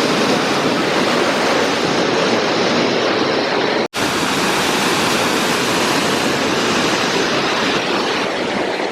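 Steady loud rush of falling and churning water at a water park. It breaks off for an instant about four seconds in and carries straight on.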